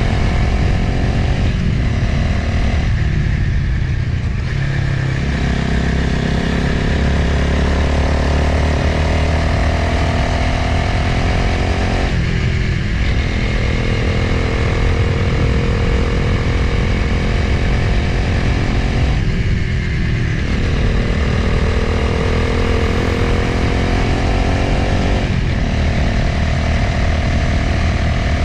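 Motorcycle engine running under way, with a steady rush of wind over the microphone. The engine note climbs steadily and then eases off briefly about five times, as the throttle is rolled off and back on.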